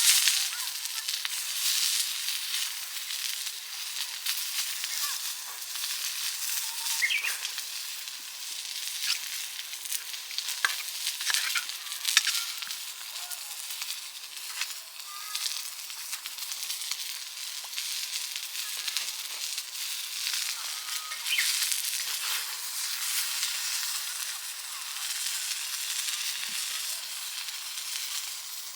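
Meat sizzling on a hot grill plate: a steady frying hiss with scattered sharp pops.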